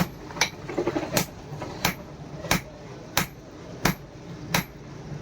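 Hand hammer striking steel on an anvil in a steady rhythm, about one and a half blows a second, each blow giving a short, high metallic ring: hot steel being forged.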